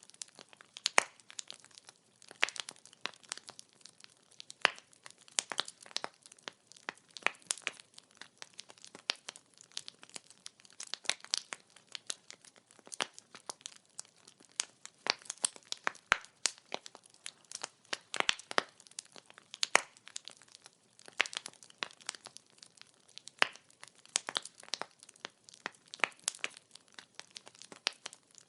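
Firewood burning in an open wood fire, crackling and popping: dense, irregular sharp snaps, some louder than others, over a soft hiss of flame.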